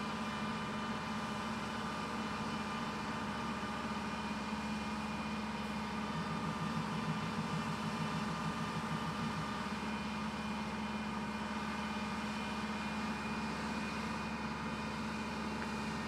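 A WindLine 16 five-axis CNC woodworking machining center running, with a steady mechanical hum and several held whining tones. A low pulsing comes in briefly around the middle.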